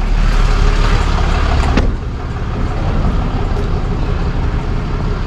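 Tow truck running, with a steady low engine rumble heard from inside the cab; a sharp click about two seconds in, after which it gets a little quieter.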